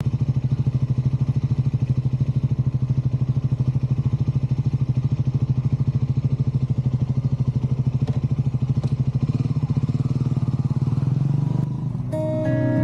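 Triumph Scrambler motorcycle engine running at a steady, even, low beat, with no revving. Acoustic guitar music comes in near the end.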